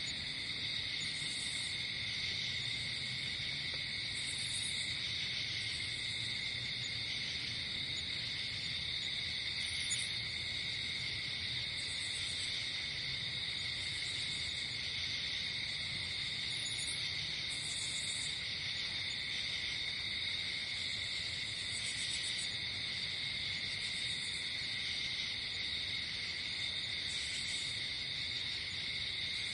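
Night insect chorus: crickets trilling steadily, with short high chirps repeating every second or two over a faint low hum.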